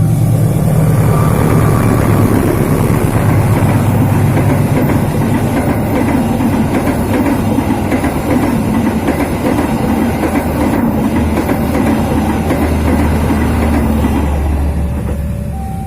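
A train passing close by: a steady low hum at first, then a loud, continuous rumble and rapid clatter of wheels over the rails, easing off near the end.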